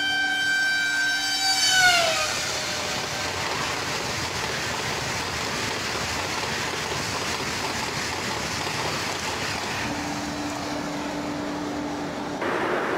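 Train 18 (Vande Bharat Express) high-speed electric trainset sounding its horn as it approaches, the horn's pitch dropping sharply about two seconds in as it passes. Then the even rushing noise of the carriages going by at speed, with a steady low tone joining near the end.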